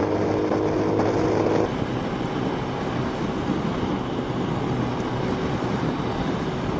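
Motorcycle running at road speed in heavy rain, with a steady engine note that drops away under two seconds in, leaving a steady rush of wind and rain noise.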